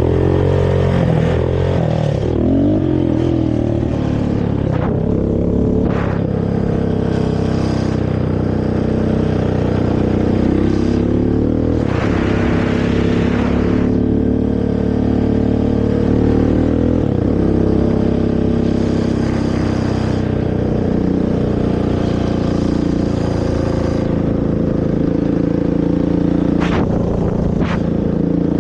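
Honda TRX450R quad's single-cylinder four-stroke engine running through its stock exhaust under riding, the pitch rising and falling as the throttle is opened and closed. About twelve seconds in, a rush of noise is heard for about two seconds.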